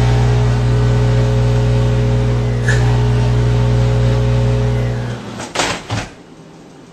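Microwave oven running at full power with a loud, steady electrical hum while a cut grape is turned to plasma under a glass inside, with one short crack near the middle. The hum cuts off about five seconds in and is followed by a few knocks.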